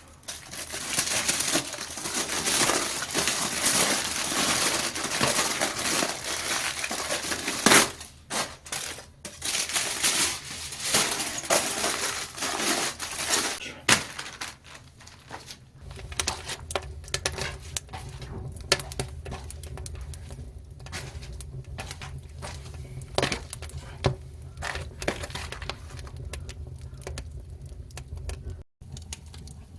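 Dry firewood and kindling crackling and snapping in a wood-fired agungi firebox. The crackle is dense at first, then thins to scattered pops, and a low steady rumble comes in about halfway through.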